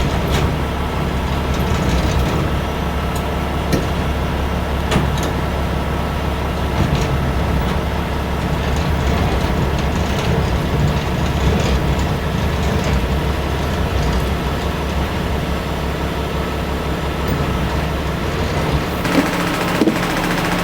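A semi-truck's engine idling with a steady low hum while the trailer's landing-gear crank is turned by hand, giving scattered metallic clicks and clunks as the trailer is lowered to meet the fifth wheel. Near the end the low hum drops and a hiss comes up.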